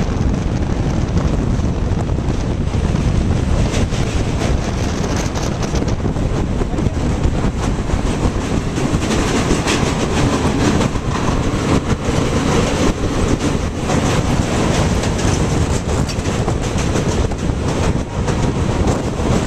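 Express passenger train running at speed over a riveted steel truss railway bridge, heard from on board: a steady loud rumble of wheels on the rails and the bridge deck, with a continual rapid clatter.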